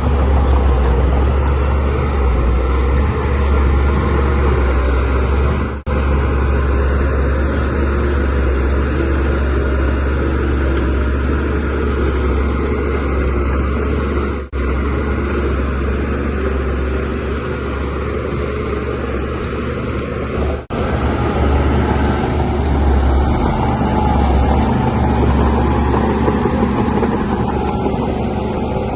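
Shantui DH17C3Pro bulldozer's diesel engine running steadily under load as it pushes fill, with a deep low drone. The sound cuts out for an instant three times, about six, fifteen and twenty-one seconds in.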